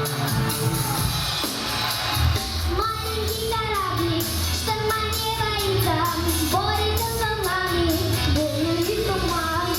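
A child singing a pop-style children's song over a backing track with a steady bass beat. The backing plays alone for the first few seconds, and the voice comes in about three seconds in.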